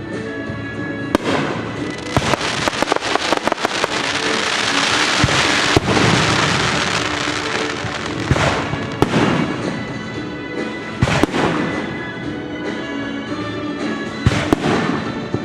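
Fireworks going off in a rapid string of bangs, then a dense stretch of crackling, with more single bangs later. Orchestral music plays underneath throughout.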